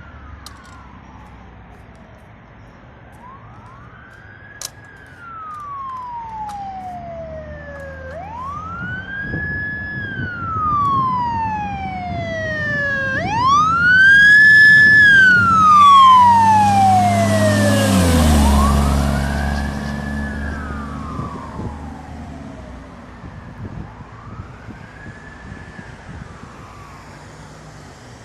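A 2001 Spartan Baron fire engine passing with its siren wailing, rising and falling about every four seconds over the engine's drone. It grows loud to a peak about fifteen seconds in, then siren and engine drop in pitch as it goes by and fades away.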